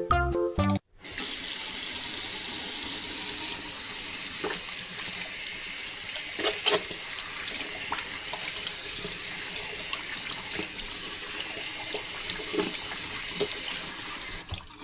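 Water rushing steadily, with a few short splashes, the loudest about six and a half seconds in.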